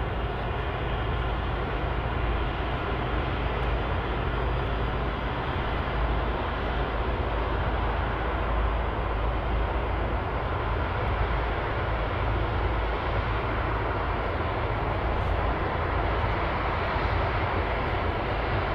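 Jet airliner engine noise running steadily, a broad even rumble with no clear rise or fall.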